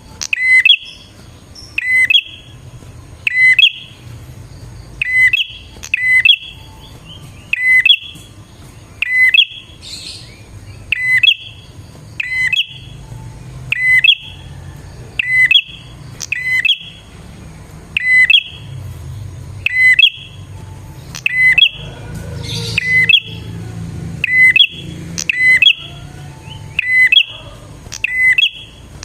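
Prinia (prenjak) giving one short, sharp chirping call over and over at a very regular pace, about one call every second and a half, as a lure recording for prinias.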